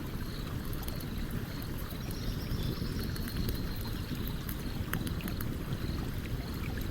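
Campfire crackling with scattered sharp pops over the steady low rush of a stream.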